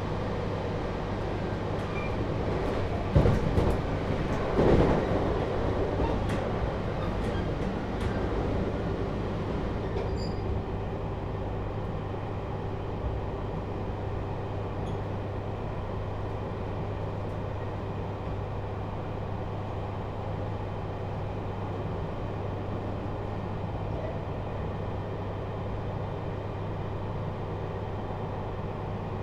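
Cabin running noise of a JR Hokkaido 721 series electric multiple unit motor car, fitted with a Toshiba GTO inverter, travelling between stations: a steady rumble and hum. A cluster of loud knocks comes about three to five seconds in.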